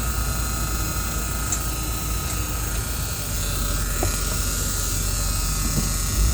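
1980 Chevy engine idling steadily after a cold start, still cold, with a steady high-pitched tone over it that the owner takes for the warning buzzer. The engine gets louder right at the end.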